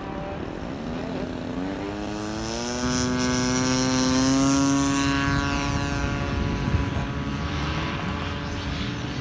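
Engine and propeller of a radio-controlled Seagull Edge 540 model aerobatic plane in flight. Its pitch and loudness rise over the first few seconds, peak around the middle as it passes closest, then the sound levels off and eases away.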